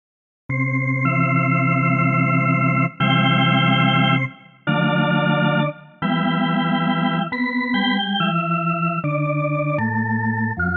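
Organ-style keyboard preset from the reFX Nexus software synthesizer playing a series of held chords, starting about half a second in and changing every second or so, with short breaks between some chords.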